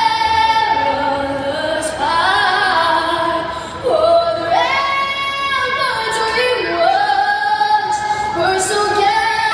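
A woman singing solo, holding long notes and sliding between pitches.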